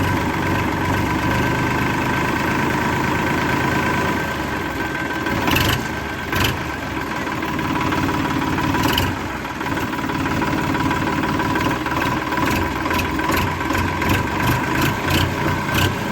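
A small motor runs steadily, with a few sharp clicks and ticks over it. This is most likely the miniature DIY tractor's motor working the plough.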